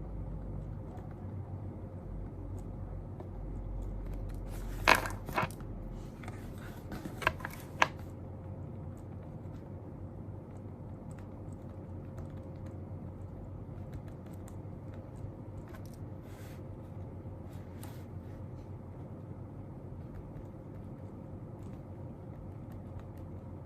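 Steady low room hum, broken by a cluster of sharp clicks and knocks about five to eight seconds in and a few fainter ticks later: small objects being handled and set down on a study desk.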